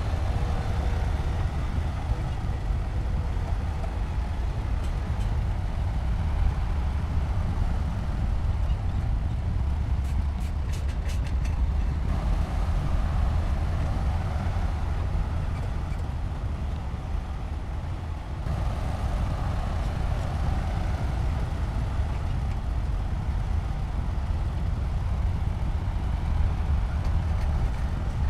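Heavy diesel earthmoving machinery running steadily with a deep low rumble, with a brief run of faint clicks around ten seconds in and a slight change in the sound at about eighteen seconds.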